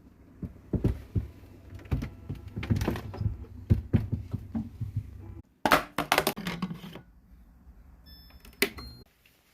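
Irregular thumps and clicks of objects being handled, with a burst of sharper clatter about six seconds in and a brief high chirp near the end.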